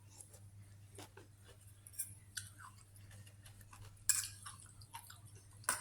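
Close-up eating sounds: wet chewing and lip smacks over a mouthful of seafood papaya salad with rice noodles, with scattered sharp clicks, the loudest about four seconds in and just before the end.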